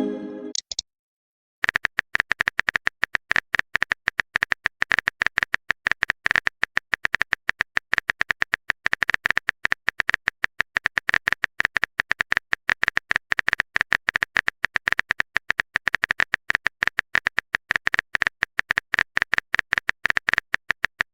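Rapid, irregular keyboard-typing clicks, several a second, starting about a second and a half in after a brief tonal blip.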